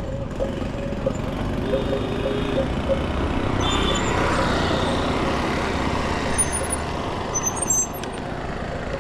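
Main-road traffic with heavy vehicles passing close, heard from a moving bicycle. The noise swells about four seconds in, and short high-pitched squeaks come near the end.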